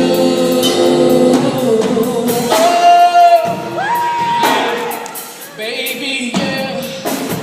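A vocal group sings a held harmony chord. After about two seconds a single lead voice rises above the group with held notes and bending vocal runs, over softer backing voices.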